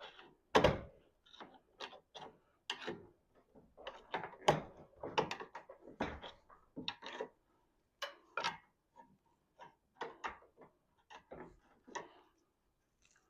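Irregular knocks, clicks and clanks of garage door hardware and tools being handled, with louder knocks about half a second in and about four and a half seconds in.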